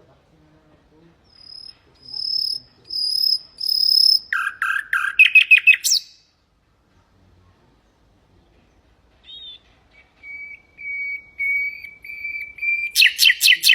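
Common nightingale singing two phrases: each opens with a run of steady, evenly repeated whistled notes and ends in a fast, loud burst of rattling notes, with a pause of about three seconds between them.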